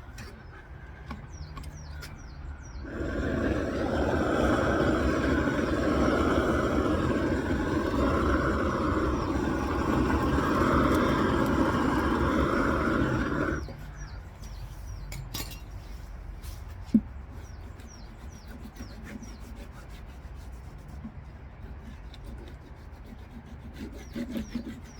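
Gas roofing torch burning steadily with a hiss, starting about three seconds in and cutting off suddenly some ten seconds later, as it heats torch-on roofing felt. Birds chirp faintly before and after.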